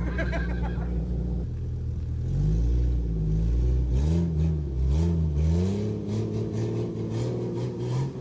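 Jeep engine revving, its pitch rising and falling several times in quick succession, then running steadier near the end.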